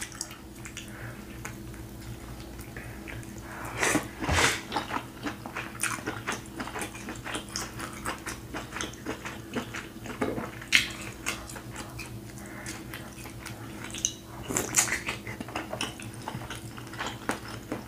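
Close-up eating sounds: a person chewing and smacking on saucy seafood-boil food, with wet mouth noises and small irregular clicks and a faint steady hum underneath. The mouth sounds come louder about 4 seconds in and again near the end.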